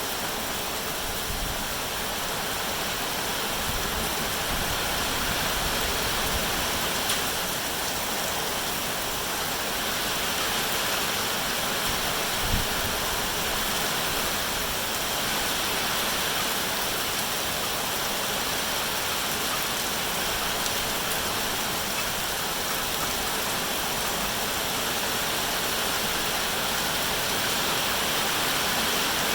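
Steady rain falling, an even, continuous hiss, with one faint knock about twelve seconds in.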